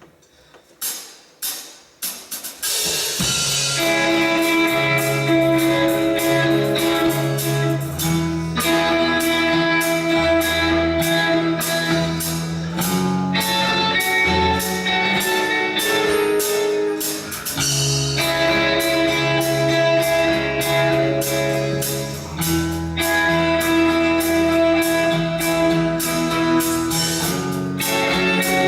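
Live rock band playing an instrumental introduction with guitars and drums. A few sharp hits come in the first two seconds, then the full band comes in at about three seconds and plays on steadily.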